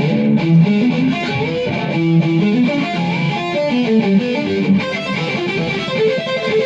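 Electric guitar playing a quick melodic line of single notes, stepping up and down several notes a second.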